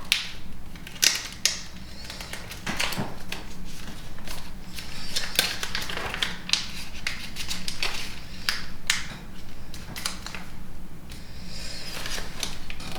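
Origami paper being folded and creased by hand: irregular crackling and rustling with sharp clicks as the paper bends and is pressed flat.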